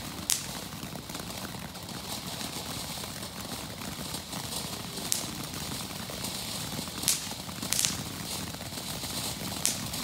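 Consumer ground fountain firework burning with a low steady hiss and a handful of sharp crackling pops, spaced a few seconds apart.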